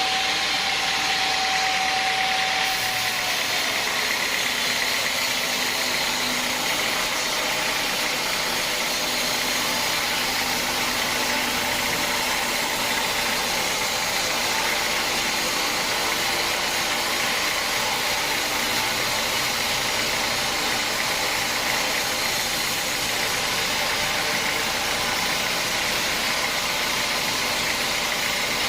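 Sawmill machinery running steadily, a dense even mechanical noise; a steady whine in it stops about three seconds in.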